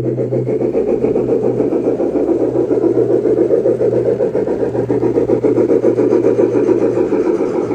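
G scale model train with three locomotives running on its garden-railway track: a continuous mechanical running noise with a steady low hum underneath.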